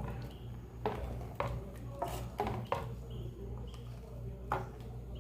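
A spoon clinking and scraping against a cooking pot in irregular knocks while a shrimp dish in coconut milk is stirred to keep it from sticking to the bottom, over a steady low hum.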